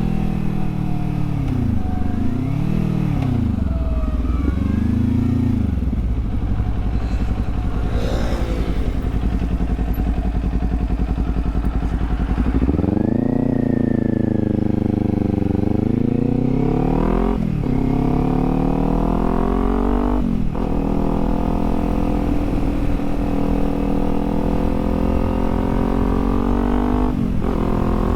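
Kawasaki Z400 parallel-twin engine through a LeoVince aftermarket exhaust, revs rising and falling in the first few seconds, then holding low before the bike accelerates through the gears: the pitch climbs and drops sharply at each upshift, about three times in the second half.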